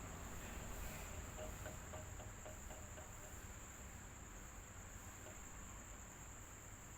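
Electric fan running steadily: a low hum under a constant high-pitched whine, with a short run of faint pips between about one and three seconds in.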